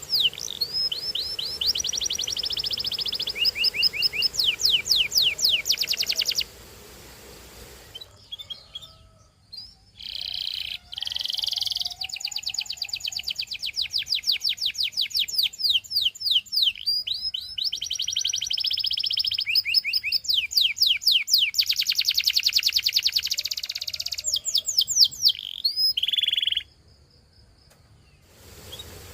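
Canary singing in long phrases of fast trills, each made of rapidly repeated sweeping notes. There is a pause of a few seconds about a quarter of the way in, and the song stops near the end.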